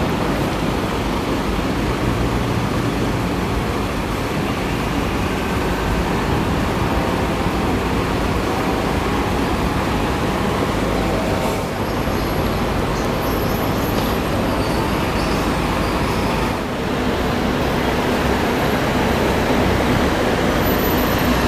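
Scania bus running, heard from inside the cabin: steady engine rumble with road and tyre noise. The sound dips briefly twice, about halfway through and again a few seconds later.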